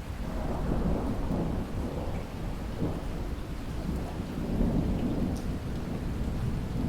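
Thunder rumbling over a steady downpour of rain. The low rumble swells at the start and rolls on under the hiss of the rain.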